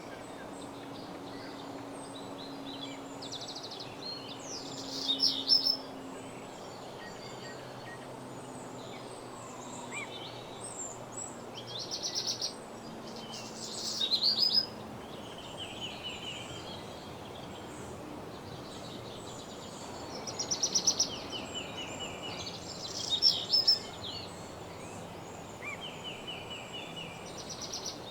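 Songbirds singing in woodland, short high trilled phrases every few seconds, the loudest about five seconds in, around twelve to fourteen seconds, and twice more past twenty seconds, over a steady background hiss.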